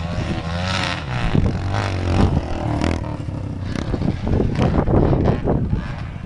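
Trail motorcycle engine revving, its pitch rising and falling unevenly with throttle, with a rough, crackling run.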